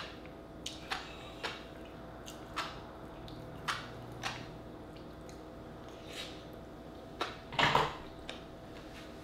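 Close mouth sounds of someone eating a raw oyster topped with fish roe: scattered short, wet smacks and clicks of chewing, roughly one a second, with one longer, louder mouth noise near the end.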